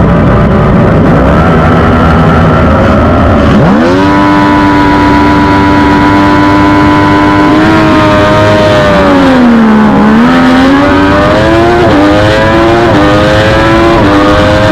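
Racing motorcycle engine, a Triumph Daytona 675R inline-three, loud throughout. It runs low and rough at first. About four seconds in, the revs sweep sharply up and hold a steady high note. The pitch dips and climbs again around ten seconds, with several quick jumps in pitch near the end.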